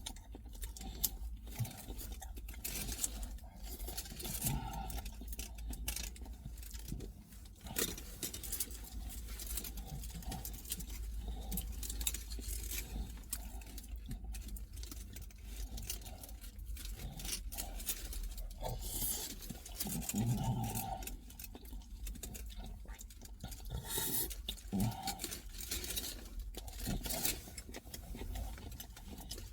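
Food-preparation handling noises at a kebab counter: scattered light clicks, scrapes and rustling while a kebab is assembled and wrapped, over a steady low hum.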